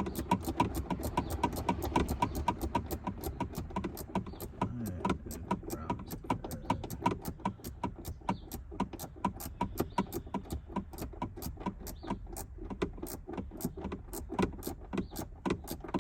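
Hand ratchet clicking steadily, about five or six clicks a second, as a bolt is run down. The retractor's mounting bolt is being tightened.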